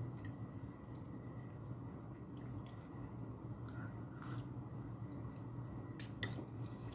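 A person chewing a mouthful of food, with soft wet mouth sounds and a few faint clicks of a spoon and fork against a plate, over a low steady hum.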